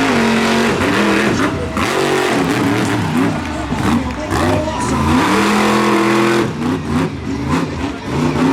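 Monster truck engine revving hard during a freestyle run, its pitch climbing and falling repeatedly and held high for a stretch before dropping back about six and a half seconds in.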